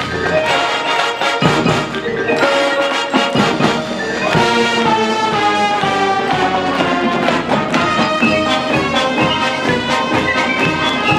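High school marching band playing: brass and percussion, with held brass chords from about four seconds in.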